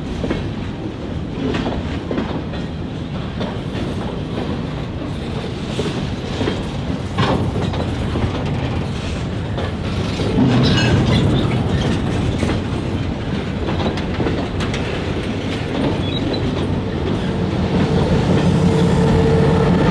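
Freight train rolling slowly, its wheels clicking over the rail joints over a steady rumble, growing louder in the last few seconds.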